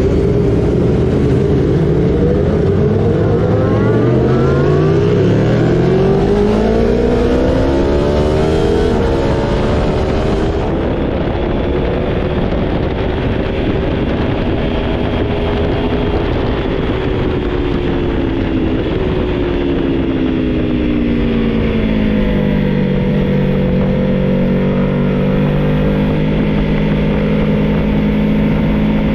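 2021 Aprilia Tuono Factory 1100's V4 engine pulling hard on track, with a strong wind rush over it. The revs climb steeply for several seconds, hold high, then drop away about three quarters of the way through and settle lower.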